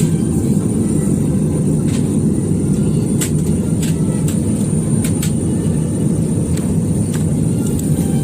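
Airbus A320 cabin noise: the steady, low rumble of the engines and airflow heard from inside the passenger cabin, with a few light clicks.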